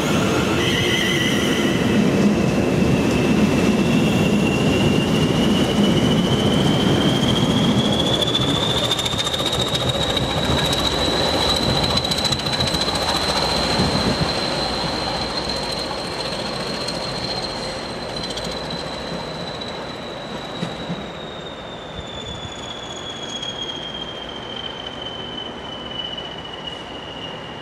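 A Class 20 diesel locomotive's English Electric 8SVT engine throbbing as it pulls away running light. A high whistle rises in pitch, holds, then falls back while the engine sound fades into the distance.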